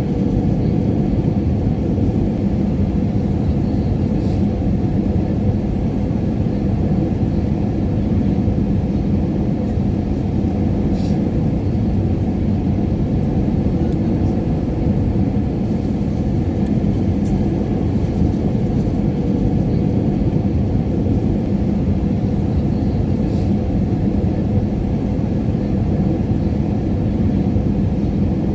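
Steady low rumble of an airliner cabin in flight, the drone of the engines and rushing air with a faint even hum underneath. A few faint ticks sound now and then.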